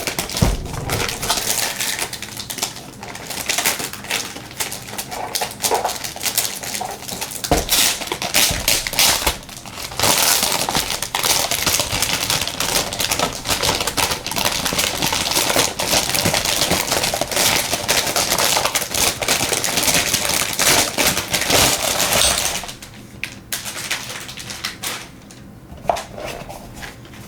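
Packaging being handled and unwrapped: a steady crinkling rustle with many small clicks and knocks. It quiets down about 23 seconds in.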